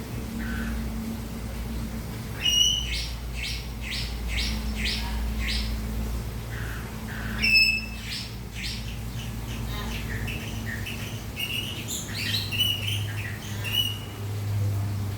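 Small birds chirping in several bouts: a quick run of about six notes roughly three seconds in, more calls near the middle, and a busier cluster toward the end, over a low steady hum.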